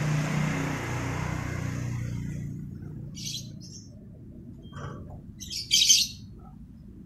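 Lovebird giving short, sharp, high chirps: one burst about three seconds in and a louder one near the end. A low rumble fades out over the first two seconds.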